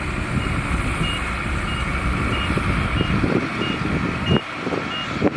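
Reversing alarm of a heavy earthmoving vehicle beeping steadily, about three beeps every two seconds, over the low rumble of its diesel engine running. Two sharp knocks come near the end.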